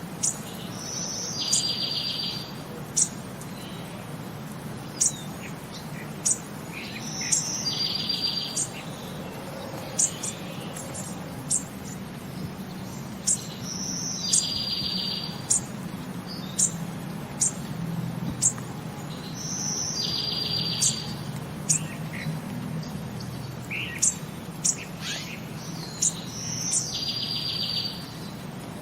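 A bird singing the same phrase over and over, about every six seconds: a short high note followed by a rapid trill lasting about a second, with many short sharp high chirps in between, over a low steady hum.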